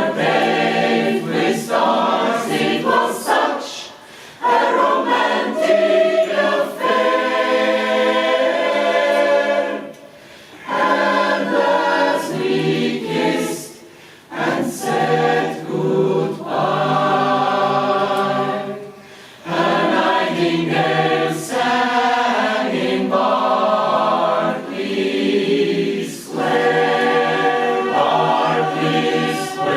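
Jazz choir singing in several-part harmony, in phrases broken by short breaths about every four to six seconds.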